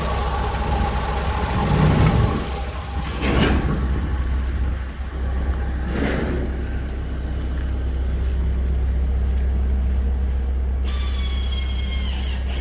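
Opel Corsa D's 1.4-litre Z14XEP four-cylinder petrol engine running on test, idling steadily. It is revved briefly about two seconds in, again around three and a half seconds, and once more around six seconds, each time rising and falling back to idle.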